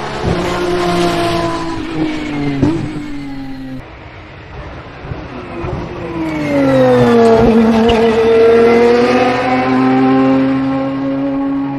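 Lamborghini Essenza SCV12's naturally aspirated V12 racing engine running on track, heard over several cut-together shots. About six seconds in, the engine note drops in pitch over a second or so, then holds steady and loud before rising slightly near the end.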